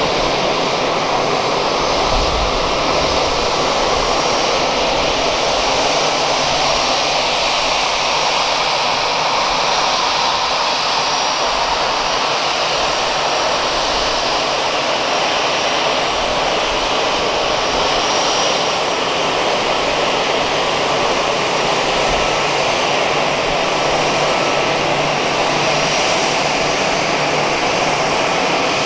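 Jet engines of an Airbus A320-214, its CFM56-5B turbofans, running at a steady, loud level with a continuous rushing noise.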